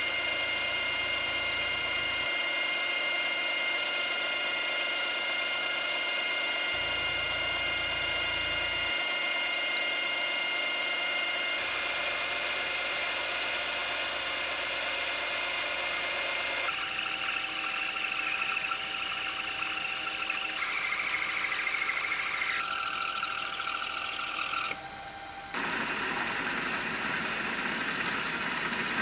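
Electric power tool motor running steadily with a whining hum. Its pitch and tone change abruptly several times.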